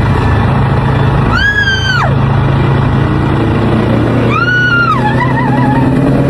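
A car engine running steadily, with a loud high tone that slides up, holds and falls away twice, about three seconds apart.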